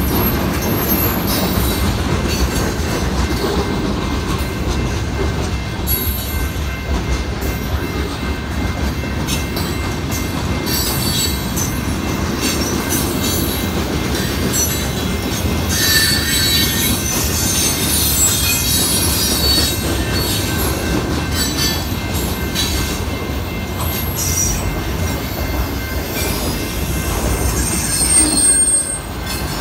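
Freight cars of a manifest train rolling past on the rails: a steady rumble of steel wheels on track, with brief high-pitched wheel squeals now and then.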